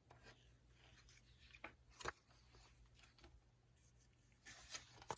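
Near silence: faint room tone with a few soft clicks, one about two seconds in and a couple more near the end.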